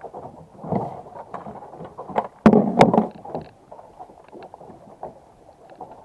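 Irregular knocking and rubbing of gear aboard a small boat, with two sharp knocks about two and a half seconds in.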